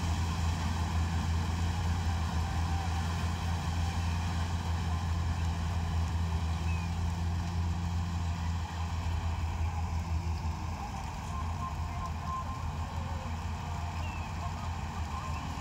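Combine harvester's engine running steadily under load, a deep continuous hum with rough machine noise above it, easing slightly about ten seconds in.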